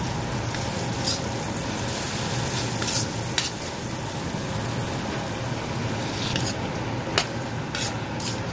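An onion and spice curry base, then chicken pieces, sizzling in a wok as a metal spoon stirs it. Scattered sharp clicks of the spoon against the wok.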